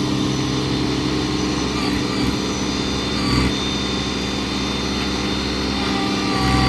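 Skid steer engine running steadily, its note rising slightly near the end.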